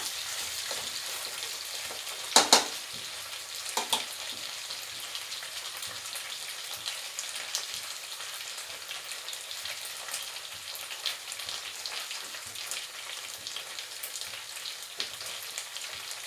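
Chicken pieces shallow-frying in oil in a kadai, a steady sizzle with small crackling pops. There are a couple of sharp knocks about two and a half and four seconds in.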